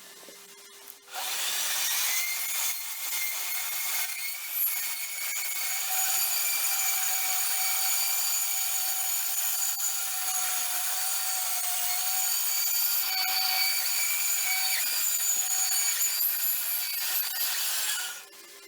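Handheld power tool cutting or grinding, starting abruptly about a second in and stopping shortly before the end. It runs with a steady high-pitched whine over a harsh rasping noise, and the pitch sags slightly partway through.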